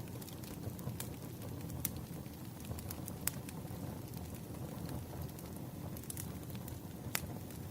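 Wood fire burning: a steady low rumble of flames with sharp crackles and pops at irregular moments. The loudest pops come a little under two seconds in, about three seconds in, and just before the end.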